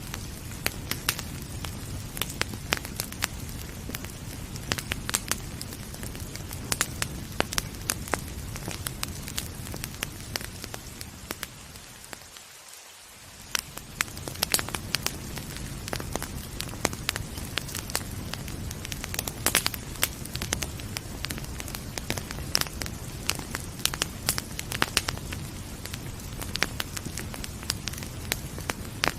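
Wood fire crackling, with frequent sharp pops and snaps over a steady hiss of rain. About halfway through, the background briefly fades down and then comes back.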